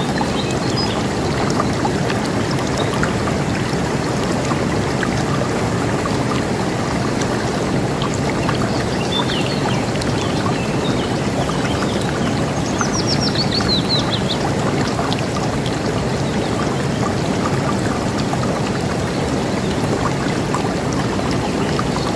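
River water rushing steadily, with scattered bird chirps; a little past halfway a bird gives a quick run of notes falling in pitch.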